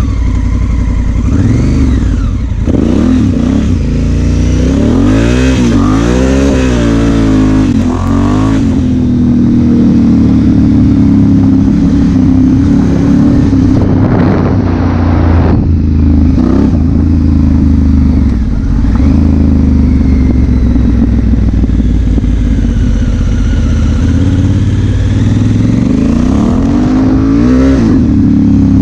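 Honda Africa Twin CRF1000L's parallel-twin engine under way, its pitch rising and falling several times through the first few seconds as it revs and shifts. It then holds a steady note at a cruising speed, and it rises again near the end.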